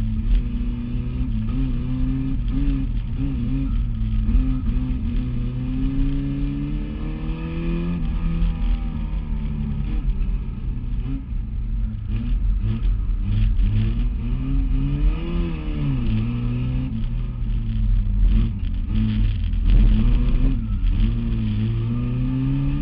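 Competition car engine heard from inside the roll-caged cabin, rising in pitch under acceleration and dropping back at each gear change, over and over, with a few knocks through the body.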